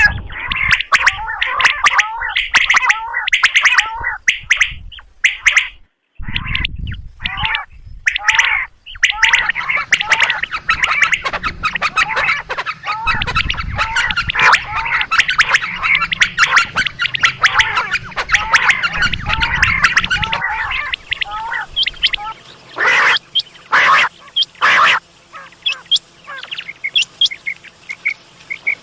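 Quail calling in quick, repeated short notes, several birds overlapping into a dense chorus through the middle, with a few louder, harsher notes near the end. This is a batair call recording of the kind played to lure quail.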